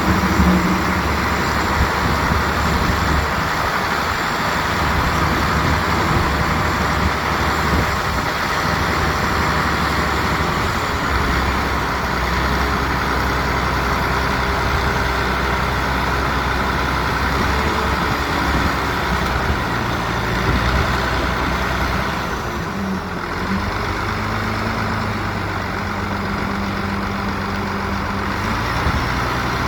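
Heavy diesel construction machinery, dump trucks and a bulldozer, running steadily, with the engine pitch shifting now and then and a brief drop about two thirds of the way through.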